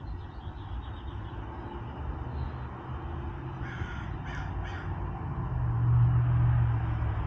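A bird gives three short, harsh calls in quick succession. Near the end a low rumble swells and fades.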